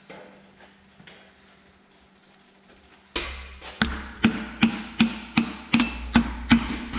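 Quiet for about three seconds, then steady rhythmic taps, nearly three a second: a hammer handle tapping a piston down through a ring compressor into a cylinder of a Hercules 478 engine.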